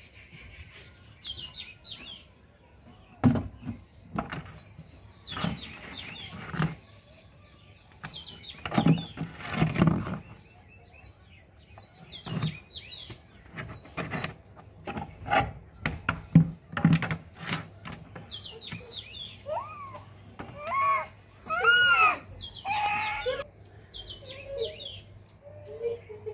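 Birds chirping and calling, with a cluster of clear calls near the end, over scattered short knocks and crackles.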